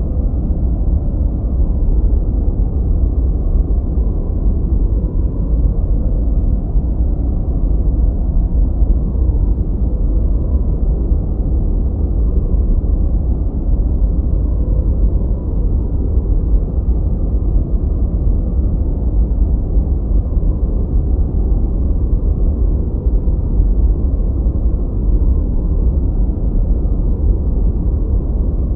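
Continuous masking noise of the kind played as white noise, here deep and muffled: a steady, even rumble with most of its weight in the low end and almost no hiss on top.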